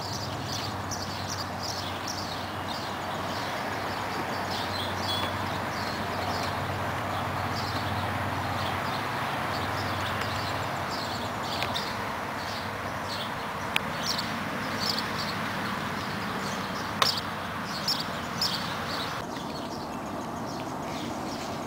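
Outdoor background of steady rushing noise with many birds chirping, short high calls repeating throughout. A few sharp clicks or knocks come in the second half.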